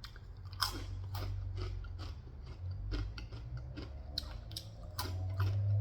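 Close-up crunching and chewing of Takis Ranch rolled corn tortilla chips: a run of irregular crisp cracks as the chips are bitten and chewed.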